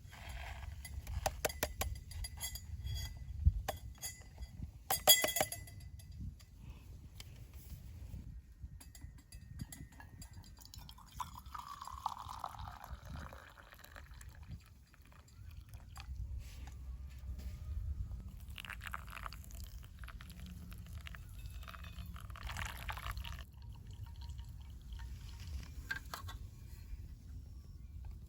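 Clinking of tableware and liquid being poured: a run of sharp clinks in the first few seconds, a longer pouring sound near the middle, then scattered light handling sounds over a low steady rumble.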